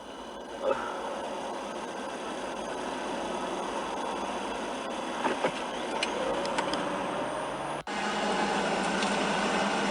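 Steady road and engine noise of a vehicle driving in traffic, with a momentary break about eight seconds in.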